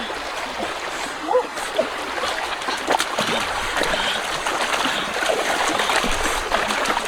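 Water splashing and trickling, with scattered short splashes and a few brief chirping calls.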